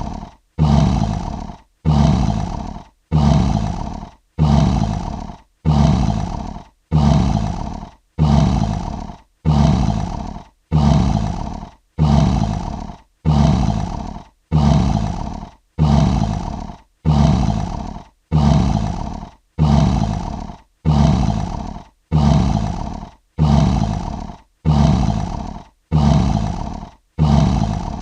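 Lion roar sound effect: a short roar about a second long, repeated at an even pace of about one a second, each starting sharply and fading out, with brief silence between. The repeats are identical, a looped recording.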